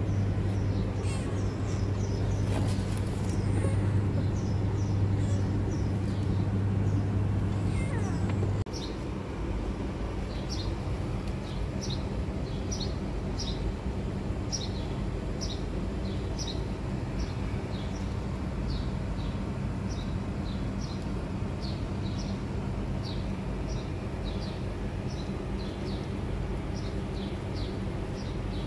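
Small birds chirping in short, high, repeated calls about once or twice a second over a steady low hum; the hum drops in level about nine seconds in.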